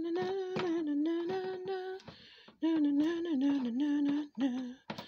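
A woman humming a tune in two long phrases with a short pause between them, over sharp clicks and clatter of kitchen work.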